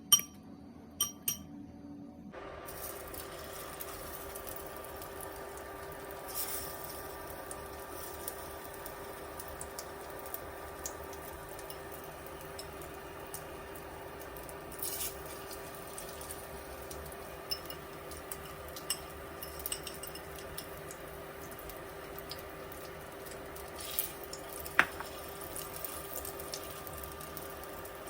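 A few sharp clinks of dishes or glassware in a home kitchen during cooking. About two seconds in, a steady hiss with a low hum starts and runs on, with occasional small clinks and taps of utensils.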